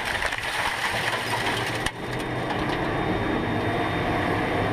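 Race car engine noise: a hissing rush for the first two seconds, broken off suddenly, then a steady engine hum.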